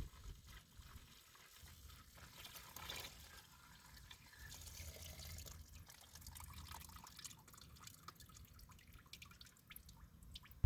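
Faint trickling and dripping of diesel and loosened sludge draining out of a Massey Ferguson 35's crankcase as it is flushed.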